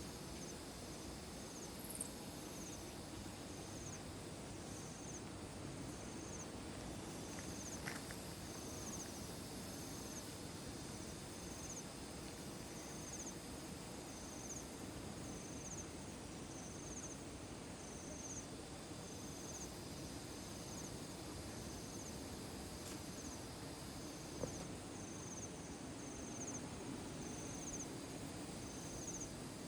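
An insect, cricket-like, chirping in short high pulses about once a second, evenly spaced, over a steady low outdoor rumble. A couple of brief ticks are heard.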